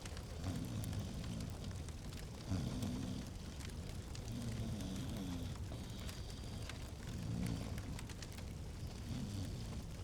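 Fireplace fire crackling and popping, with many sharp little snaps. Under it, a low sound of about a second comes back roughly every two seconds.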